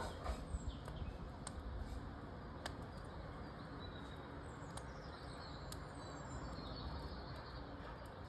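Wood fire crackling in a fireplace, with scattered sharp pops over a low steady rush. Birds chirp faintly in the background, mostly in the second half.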